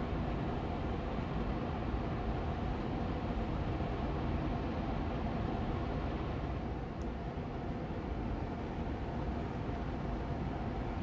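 Air purifier fan running steadily on medium speed: an even rushing of air with a low hum.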